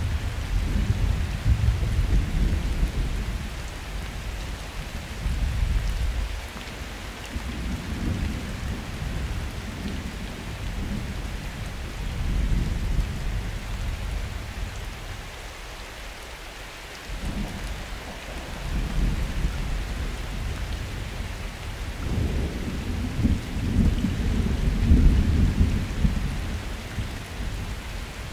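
Steady rain falling with distant thunder rolling in long low rumbles that swell and fade several times, easing off about halfway and building to the loudest roll near the end.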